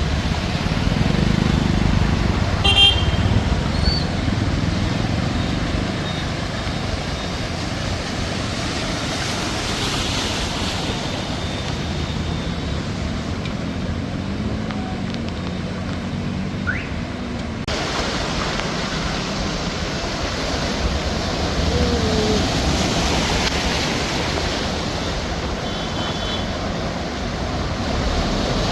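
Road traffic: vehicles passing steadily, with short horn toots about three seconds in and again near the end.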